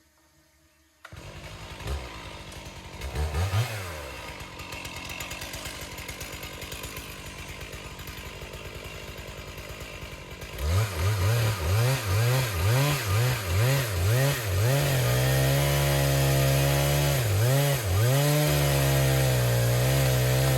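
Stihl two-stroke chainsaw, starting about a second in at a low running speed with a brief rev, then blipped up and down repeatedly about halfway through, then held at high revs with two short dips: cutting into the tree to fell it.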